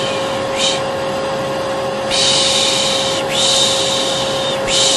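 Vacuum cleaner running steadily with a constant hum, overlaid by repeated 'shh' shushing. A short shush comes about half a second in, then two long drawn-out shushes follow from about two seconds in.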